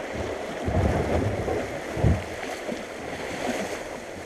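Rushing water of a creek rapid around a kayak, with low thumps about a second in and again at two seconds.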